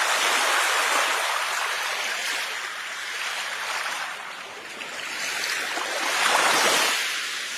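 Ocean waves washing onto the shore, a hiss of surf that swells and recedes: one surge at the start and another about six seconds in.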